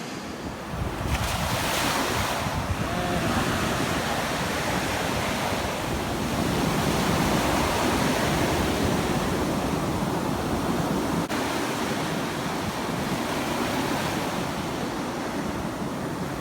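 Ocean surf breaking and washing, surging about a second in, with wind buffeting the microphone.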